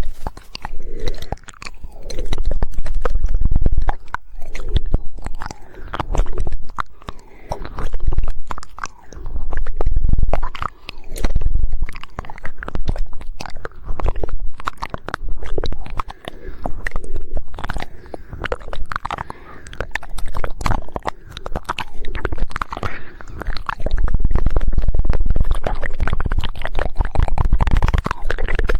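Rapid woodpecker-style tongue clicks and wet mouth sounds made right at an ASMR microphone, with no speech. They come in swells about every two seconds, each carrying a deep rumble.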